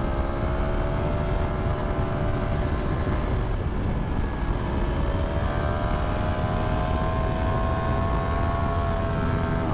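Yamaha MT-10's crossplane inline-four engine running steadily under way, over wind rush. It eases off briefly a little past a third of the way in, then climbs slowly in pitch and drops near the end.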